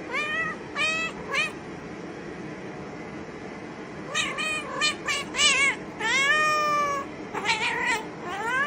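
A cat meowing repeatedly. It gives a quick run of short meows, pauses for about two seconds, then meows again, including one long meow that falls in pitch, and a rising one near the end.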